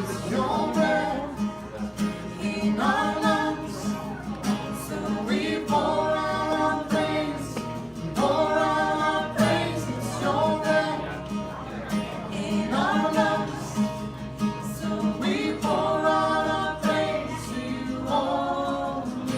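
Singing with a strummed acoustic guitar, the sung phrases coming every two to three seconds over a steady strumming rhythm.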